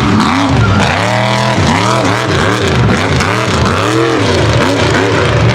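Mega truck's engine revving hard, its pitch swinging up and down again and again, about twice a second.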